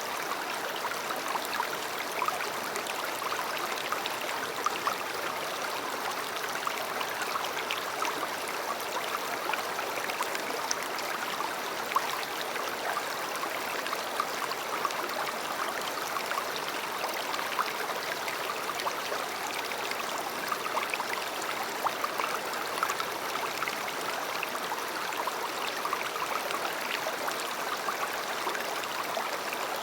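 A river or stream running over stones: a steady rush of water with small gurgles and splashes throughout.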